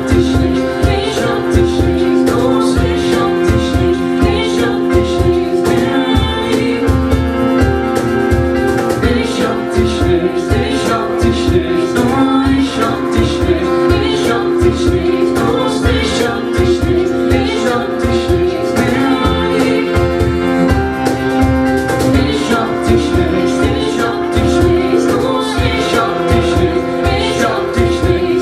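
A live band playing an instrumental stretch of a song with a steady beat, no lyrics sung.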